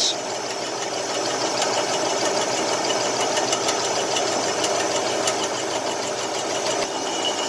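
Milling machine running and cutting through a metal part: a steady mechanical din with a fine rapid ticking of the cutter in the metal, and a high whine that comes in near the end.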